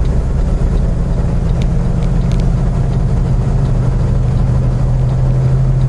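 Semi truck's diesel engine running steadily under way with road noise, heard from inside the cab as a continuous low drone; its hum grows stronger in the second half.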